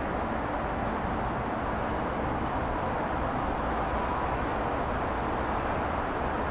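Steady outdoor background noise with a low rumble underneath and no firework bursts.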